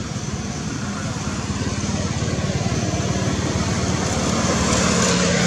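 Steady engine rumble and road noise from a motor vehicle, growing a little louder toward the end.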